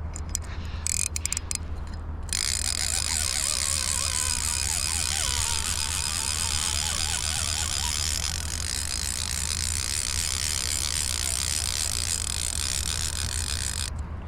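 Fly reel's click-and-pawl drag ratcheting steadily as line is pulled off or wound in while a hooked rainbow trout is being played. It starts about two seconds in and stops shortly before the end.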